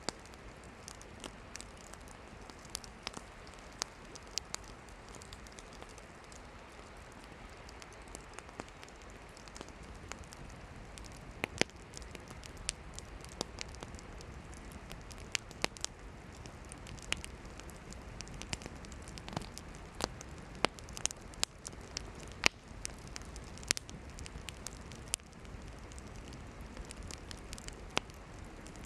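Wood campfire burning, with a steady low hiss and frequent irregular sharp pops and crackles from the burning firewood, growing busier in the second half.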